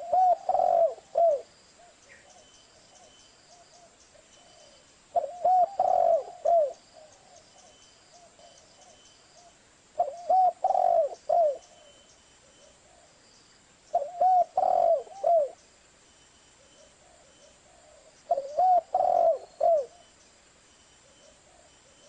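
Zebra dove (perkutut) cooing: five song phrases, each a quick run of arching coos lasting about a second and a half, repeated about every four to five seconds.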